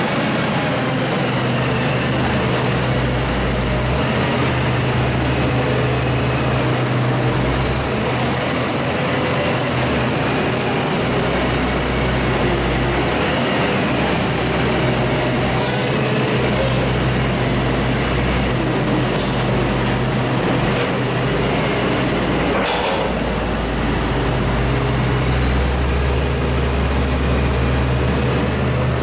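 Heavy farm machine's diesel engine running steadily and loud, heard close up. There are a few short high squeaks in the middle and a single knock about two-thirds of the way through.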